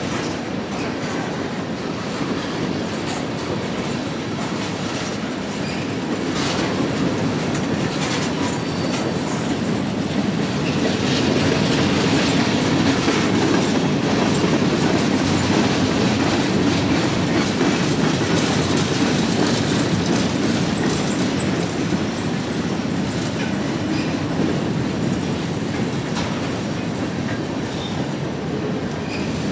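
Freight cars of a mixed freight train rolling past in a steady rumble, wheels clicking over the rail joints. The sound swells a little around the middle.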